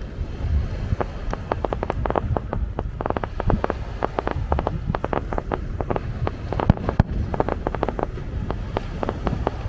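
Fireworks crackling: a dense run of quick pops starting about a second in, with a couple of louder bangs near the end, over a steady low rumble.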